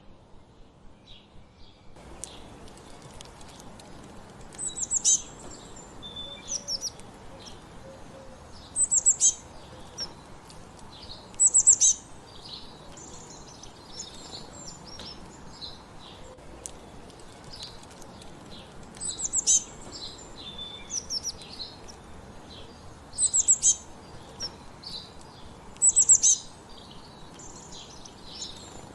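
Wild songbirds singing and chirping. One bird repeats a loud, high, short phrase every few seconds over many softer calls. The sound changes about two seconds in, from a quieter stretch with soft regular pulses to a fuller chorus.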